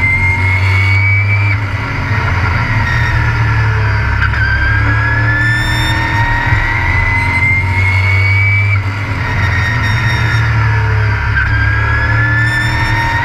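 Race truck engine heard onboard, loud and under hard throttle, its pitch climbing for a few seconds and then dropping sharply, again and again, over a heavy low drone and road and wind noise.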